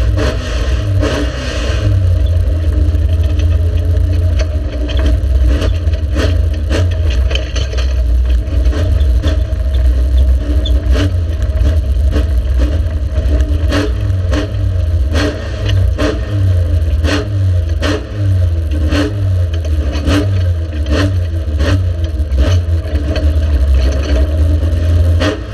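Racing car engine running loud and low under load, its note pulsing unevenly, with frequent sharp clattering knocks over it.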